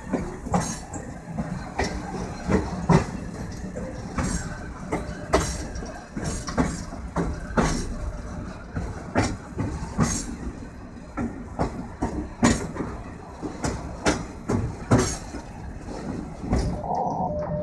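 Moving train's wheels clacking over the rails, an irregular run of sharp knocks about once or twice a second over a steady rumble.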